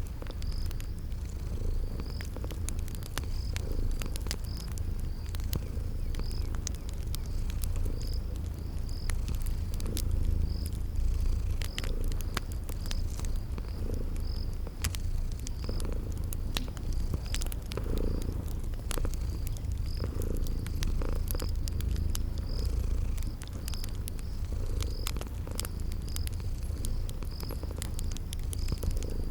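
Cat purring steadily in a low rumble, with a wood fire crackling in scattered sharp pops and a cricket chirping at an even pace.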